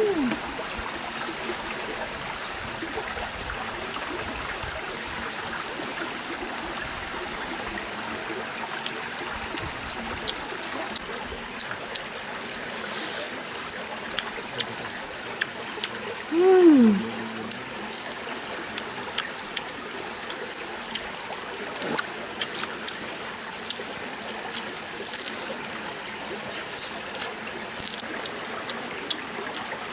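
Stream water trickling steadily, with scattered light clicks and knocks. About halfway through comes one short falling voice-like tone, the loudest moment.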